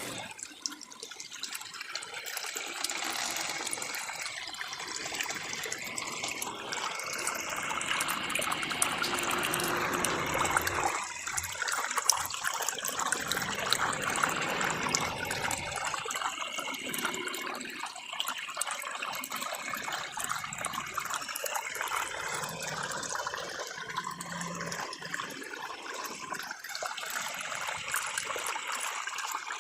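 Water sloshing and splashing in a homemade 12 V bucket washing machine as it churns the clothes, the churning swelling and easing unevenly.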